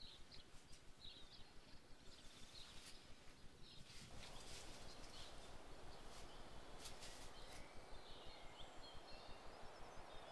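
Faint woodland birdsong: short, high chirps and twitters over a quiet background hiss, with a few light clicks and crackles in the middle.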